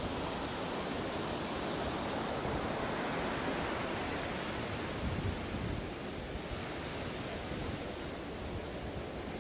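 Steady rushing noise of wind and sea on the open deck of a moving passenger ferry, with low gusty buffeting, easing slightly about two-thirds of the way through.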